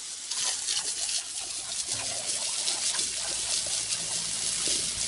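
Steady running water, like a tap trickling and splashing.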